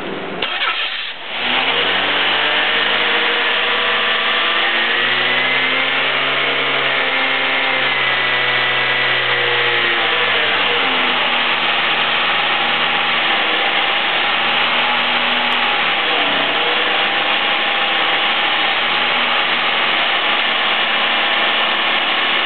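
A freshly rebuilt 1996 Chevy Cavalier 2.2-litre four-cylinder engine catches and starts about a second in on its first start after the rebuild. It runs at a fast idle that climbs in pitch, then drops to a lower, steady idle about ten seconds in.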